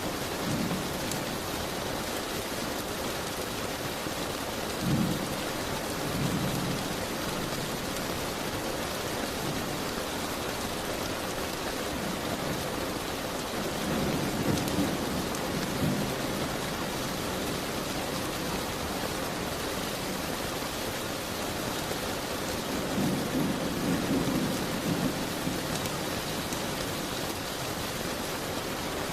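Steady rain beating against a window, a continuous even hiss. Low rumbles swell up several times: around 5 seconds in, twice in the middle, and again near the end.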